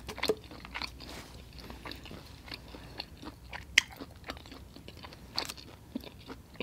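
A person chewing a mouthful of chicken wing, with irregular sharp wet mouth clicks scattered through.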